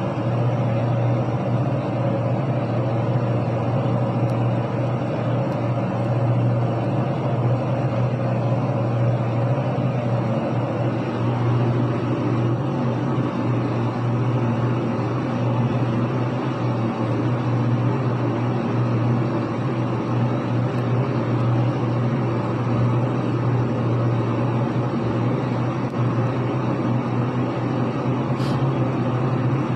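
Gold and silver soldering machine running with a steady low hum and a rushing noise over it, unchanged throughout.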